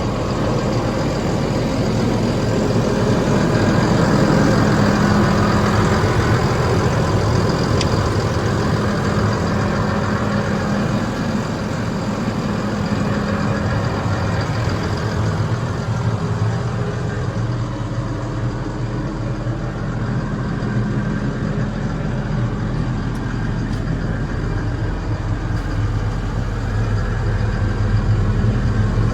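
Case CVX 270 tractor's diesel engine running steadily.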